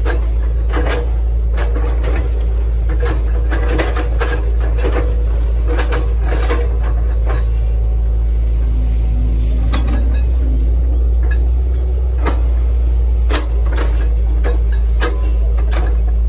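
Hitachi ZX110 MF excavator's diesel engine running steadily under load, with a quick, irregular series of cracks and knocks that thin out about halfway through, the sound of its bucket chopping an oil palm trunk.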